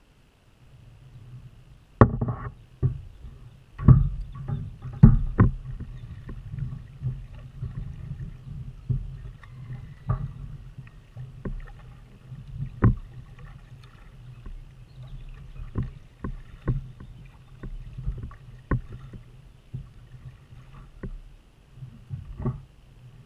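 Repeated knocks and thumps on a kayak's plastic hull, the loudest in the first few seconds and then smaller knocks every second or so, over a low steady rumble.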